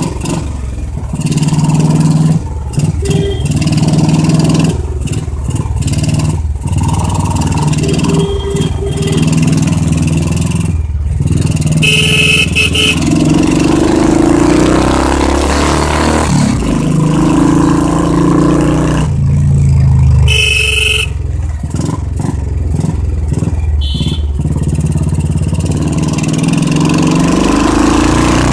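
Loud exhaust of a single-cylinder Royal Enfield motorcycle on the move, its pitch rising and falling as the rider opens and closes the throttle through the gears. Short horn toots sound about twelve seconds in, again near twenty seconds and once more a few seconds later.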